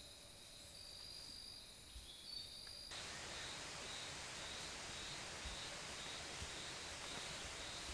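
Insects trilling in the forest in steady high tones; about three seconds in, the sound changes abruptly to an even hiss with an insect call pulsing over it.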